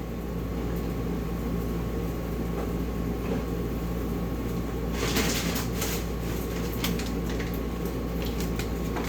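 A steady mechanical hum from a running kitchen appliance. About halfway through, rustling and light clicks of things being handled join it.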